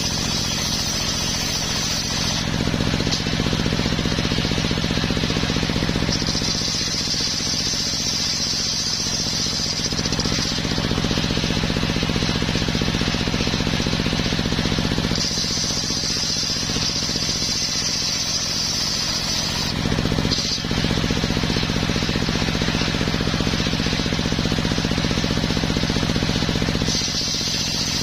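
Engine-driven homemade circular sawmill running continuously while sawing coconut wood. The low engine sound swells and eases in long stretches, and a high steady whine comes and goes three times.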